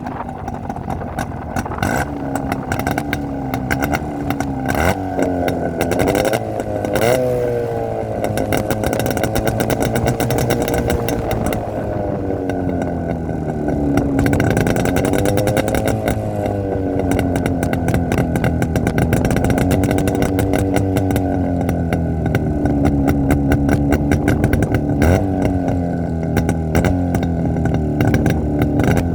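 Jawa 350 twin-cylinder motorcycle engine running, its pitch rising and falling as the throttle is opened and eased off several times.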